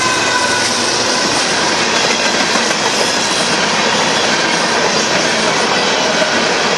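Empty covered hopper cars of a Union Pacific grain train rolling steadily past.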